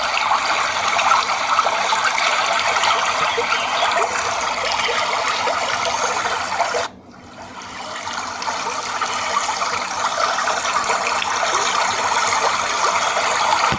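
Steady rushing, trickling water. About seven seconds in it drops off suddenly, then swells back to the same level.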